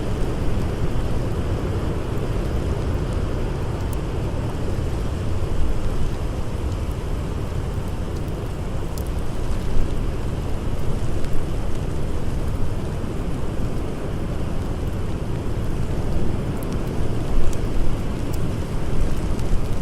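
Blizzard wind: a steady, dense rush of wind noise, heaviest in the low end. A few sharp crackles from a burning wood fire come through it now and then.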